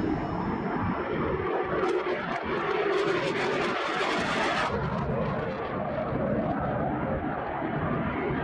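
Aircraft engine running, a steady noisy drone with a hissier stretch from about two to nearly five seconds in.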